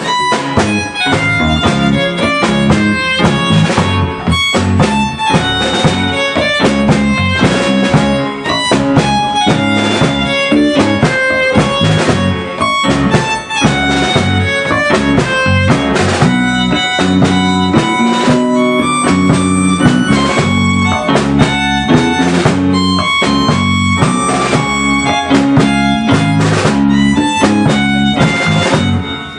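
A band playing an instrumental number with guitar and a drum kit keeping a steady beat under sustained lead notes.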